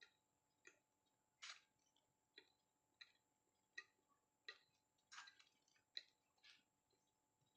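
Faint, short clicks repeating about every two-thirds of a second.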